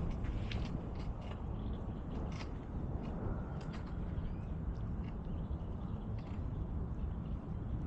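Riding a bicycle: a steady low rumble of wind and tyres, with scattered short clicks and creaks from the bike.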